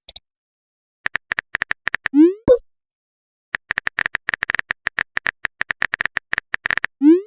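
Phone keyboard typing sounds: quick runs of light clicks, each run ending in a short rising 'bloop' message-sent sound with a pop. One bloop comes about two seconds in and another near the end, after a longer burst of clicks.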